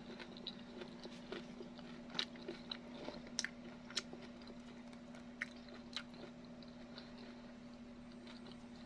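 A person chewing a mouthful of crumb-coated fried food, with short sharp crunches and mouth clicks every second or so. A faint steady hum runs underneath.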